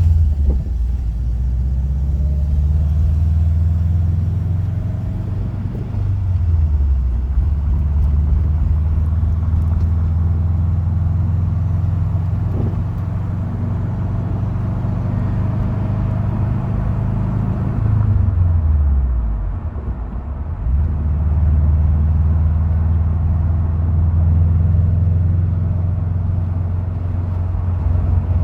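Subaru WRX STI hatchback's turbocharged flat-four engine running while driving. Its pitch falls twice, about six seconds in and again around eighteen to twenty seconds, as the revs drop, and it picks up again just after twenty seconds.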